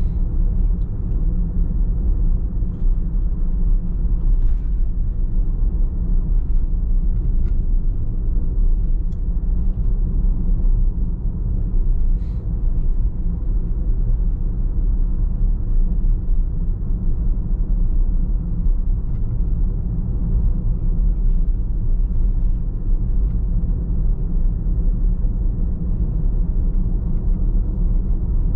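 Steady low rumble of a car driving at an even pace, road and engine noise with no change in speed, with faint light ticks now and then.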